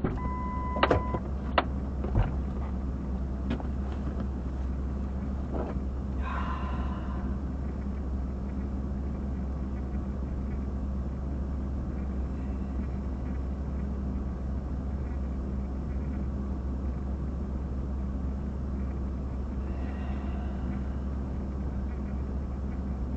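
Steady low electrical hum on an open launch-control radio or intercom channel, with a short beep just under a second in, a few clicks, and a brief burst of static around six seconds.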